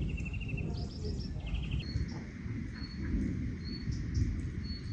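Songbirds chirping: a few quick trilled phrases in the first two seconds, then single short high chirps about once a second, over a low steady rumble.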